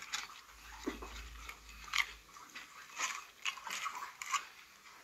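A person chewing a piece of crispy battered chicken, with irregular crisp crunches, the sharpest about two seconds in and a run of them near the end.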